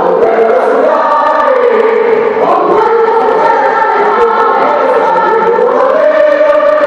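Choir singing long held notes in harmony, the chords shifting every second or two.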